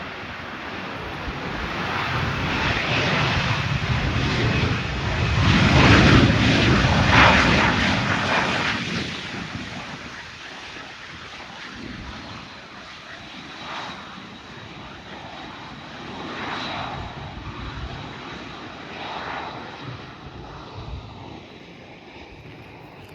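Jet airliner's turbofan engines passing close by, swelling to a loud peak about six seconds in and then fading away, with a thin high whine lingering as it recedes.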